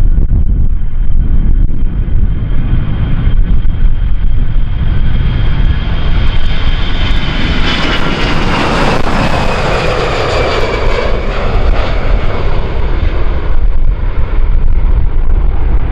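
Airliner taking off and passing by, its engine noise swelling to a peak about eight to ten seconds in, with tones falling in pitch as it goes past, then fading. Strong wind buffets the microphone with a low rumble throughout.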